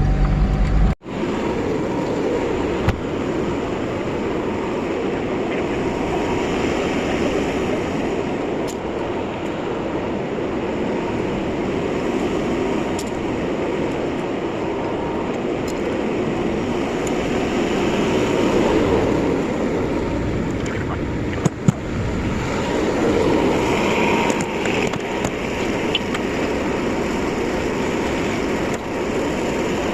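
Steady engine and road noise heard from inside an old Dodge truck's cab while driving. There is a brief dropout about a second in and a couple of sharp knocks about two-thirds of the way through.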